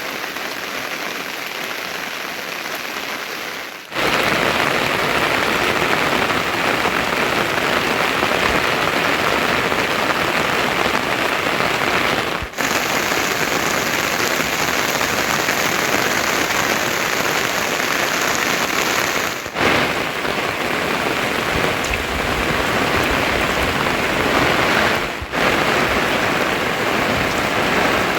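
Heavy rain falling steadily, a dense even hiss. It turns louder and fuller about four seconds in, with brief dips three more times.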